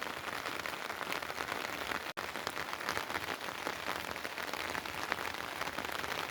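Steady rain falling, a dense patter of drop hits. It cuts out for an instant about two seconds in.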